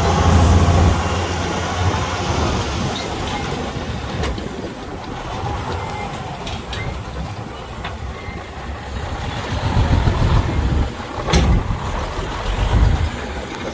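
Heavy diesel earthmoving machinery running, a steady low engine rumble that swells in places. A short high hiss comes right at the start, and a few sharp knocks or clanks come through, the loudest about eleven seconds in.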